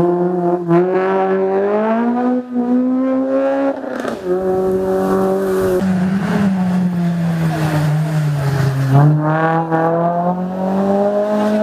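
Racing car engine at high revs, pulling hard on a hill climb. The pitch climbs, drops sharply at about four seconds, sinks slowly for a few seconds, then climbs again near the end.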